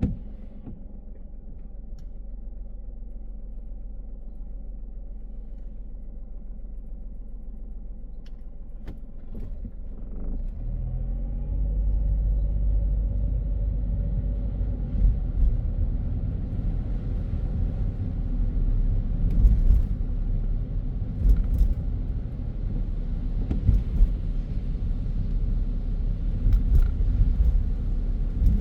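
A car driving: steady low engine and road rumble that grows louder and rises in pitch as the car speeds up about ten seconds in, then runs on at speed with a few faint ticks.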